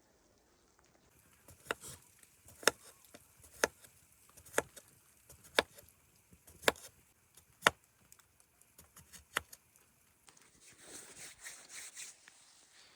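About eight sharp knocks, roughly one a second, then a softer rustling from about ten seconds in.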